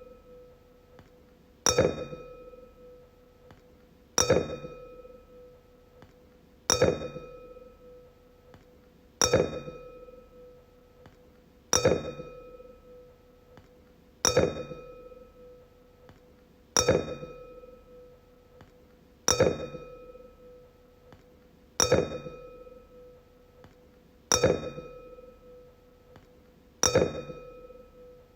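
A wine glass struck over and over, about once every two and a half seconds. Each strike gives a sharp clink, then a clear ringing tone that fades over a second or two.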